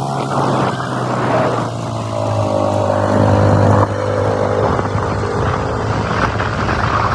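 Motorcycle engine running under way, its pitch sliding down over the first few seconds, then a sudden drop in loudness about four seconds in as the throttle eases.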